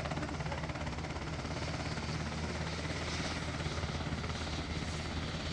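UH-60 Black Hawk helicopter running steadily on the ground before takeoff, a continuous turbine and rotor sound with a fast, even flutter.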